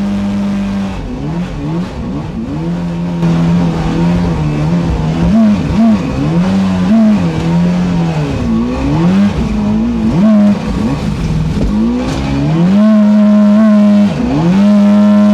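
A creek boat's motor running under changing throttle: a steady pitched drone that sags and climbs again and again, then holds at a higher speed near the end.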